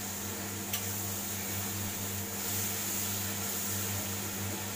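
Spiced tomato masala sizzling as it is stirred and roasted in oil in a kadai, with a steady low hum underneath. About a second in, the spatula knocks once sharply against the pan.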